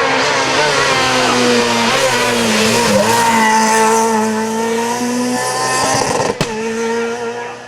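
Rally car engine running hard at high revs, its pitch held high and wavering a little, with tyre noise underneath. About six seconds in there is a sharp click, and the sound then fades out.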